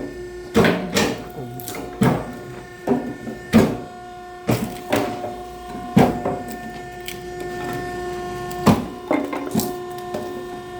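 A firewood-splitting machine runs with a steady mechanical hum, under repeated sharp knocks and cracks of oak wood being split and thrown about. The knocks come irregularly, about once a second, and thin out for a few seconds in the middle, where the hum is clearest.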